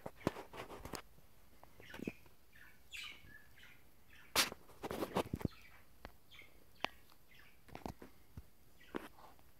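Budgerigars chirping in short, scattered calls, mixed with sharp clicks and taps; the loudest tap comes about halfway through.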